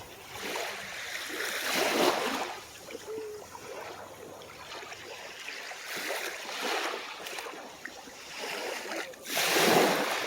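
Small waves washing onto the shore in repeated surges, the loudest about two seconds in and again near the end.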